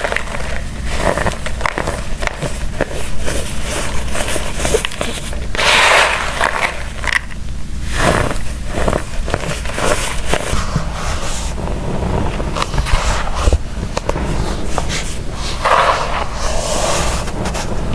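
Crunchy baked baking-soda blocks being crushed and crumbled, a dense run of irregular cracks and crackles with a few longer crumbling gushes.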